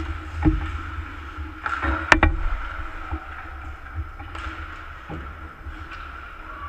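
Ice hockey game on a rink: a steady low rumble of arena noise with sharp clacks of hockey sticks and puck, one about half a second in, two close together near two seconds, and a fainter one near five seconds.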